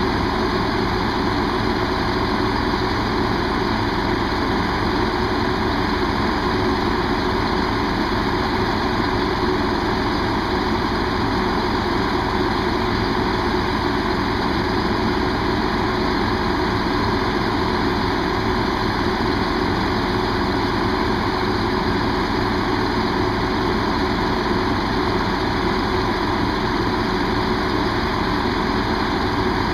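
A diesel train engine idling steadily, unchanging throughout.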